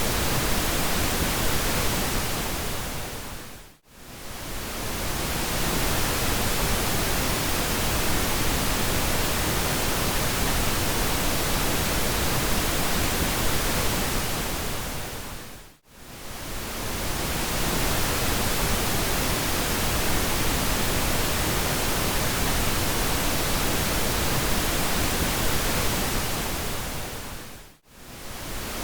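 Steady synthetic pink noise, an even hiss across the whole range. About every twelve seconds it briefly fades down to near silence and swells back up, three times, where the recording loops.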